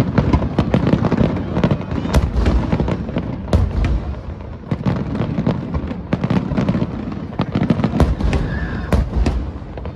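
Fireworks display in full barrage: a rapid, continuous crackle of many shell bursts and reports with a deep booming rumble underneath.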